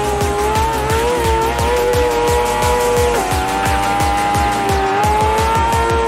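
BMW S1000RR's inline-four engine held at high revs, its pitch dipping about three seconds in and climbing back near the end, mixed with background music.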